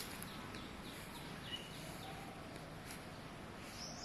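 Faint outdoor ambience with birds calling: a run of short, quick falling chirps, then near the end a fast, high, evenly pulsing call starts.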